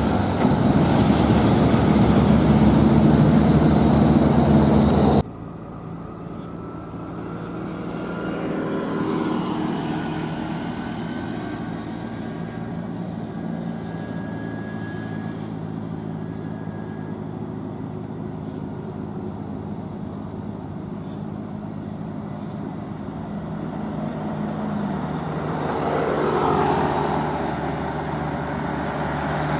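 Heavy diesel truck engine running on the road, with road noise. The sound is loud and rough for about five seconds, drops suddenly to a quieter, steady engine hum, and swells again near the end.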